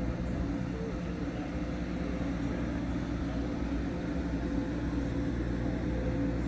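An engine running steadily, a constant droning hum with no changes in pitch.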